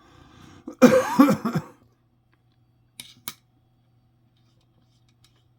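A man coughs and clears his throat about a second in. Two short sharp clicks follow about two seconds later, over a faint steady low hum.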